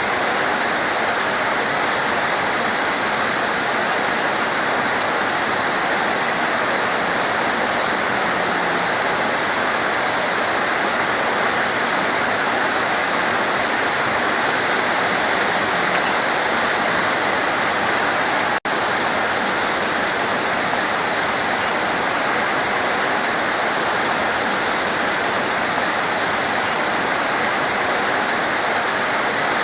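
Heavy torrential rain pouring steadily, a dense, even hiss with a split-second dropout about two-thirds of the way through.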